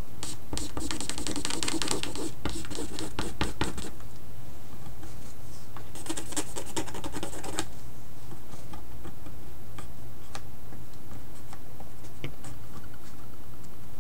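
Scratching of a pen or marker on the painting surface in two bursts of quick strokes, the first about four seconds long and the second shorter, halfway through, then a few scattered light taps, over a steady low hum.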